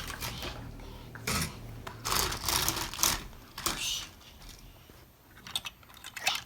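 Plastic toys and LEGO pieces being handled, with clicking and clattering and a few louder rattling bursts between about one and four seconds in.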